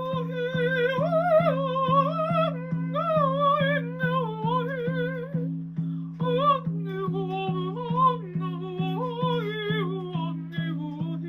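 A woman's wordless improvised singing: long wavering tones with vibrato that slide up and down in pitch, over a steady low drone that pulses about three times a second.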